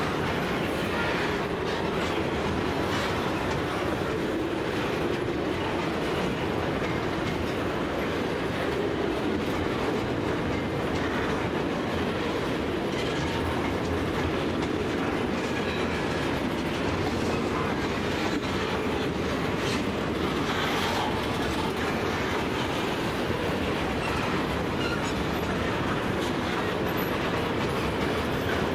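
VHGF grain hopper wagons of a long freight train rolling past: a steady rumble of steel wheels on rail, with scattered clacks as the wheels cross rail joints.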